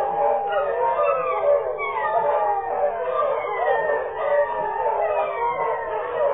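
Several beagle puppies howling and whining together, their overlapping voices gliding up and down without a break.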